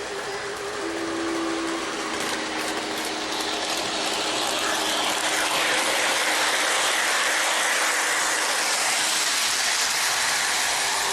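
O-gauge model train running on its track: a steady mechanical rattle of wheels and gearing that grows a little louder around the middle as it comes closer.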